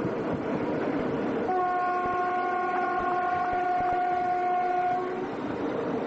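Train horn sounding one long steady blast of about three and a half seconds, starting about a second and a half in, over the continuous rumble of the train running.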